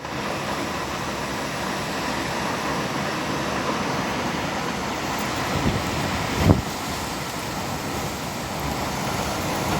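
Strong wind blowing steadily, with a sudden gust buffeting the microphone about six and a half seconds in.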